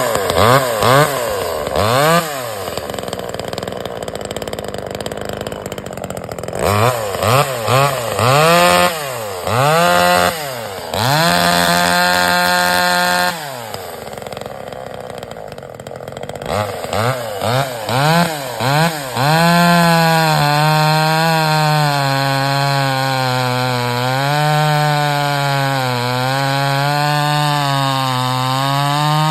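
Neotec top-handle chainsaw engine running, revved in quick throttle blips again and again, with a spell at lower idle about halfway through. For the last ten seconds it is held near a steady speed, its pitch wavering slowly.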